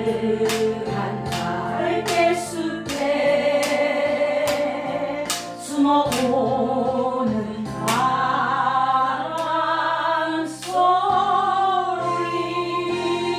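Women's voices singing a Korean ballad together over an instrumental backing track with a steady beat.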